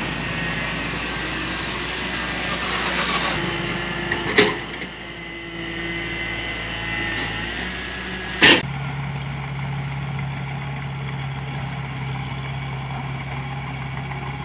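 Diesel engine of a heavy earthmoving machine running steadily, with two sharp knocks about four and eight and a half seconds in. After the second knock the sound turns duller, leaving a steady low hum.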